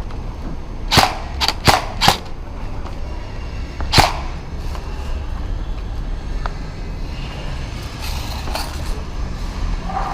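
Airsoft replicas firing single shots: four sharp pops in quick succession about a second in, then one more a couple of seconds later, over a low rumble.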